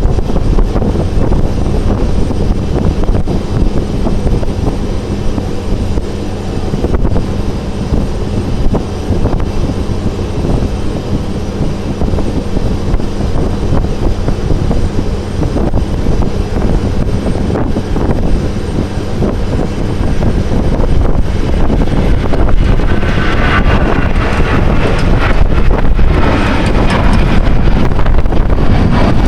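Airbus A321 jet airliner landing in windy conditions: heavy low rumbling noise with a steady low hum under it. About 23 seconds in, a louder, higher-pitched rushing sound joins.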